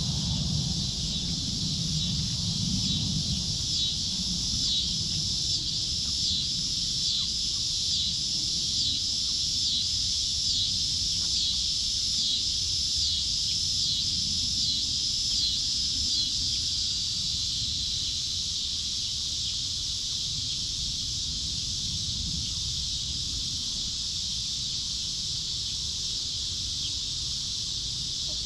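Steady high-pitched chorus of insects such as cicadas or crickets. Over it, a short high call repeats about once a second from a few seconds in until about halfway through, then stops, leaving the steady chorus over a low rumble.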